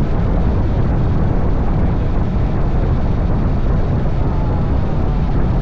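Honda NC750X DCT motorcycle under way at a steady speed: its parallel-twin engine under a constant rush of wind and road noise, with no revving or gear changes.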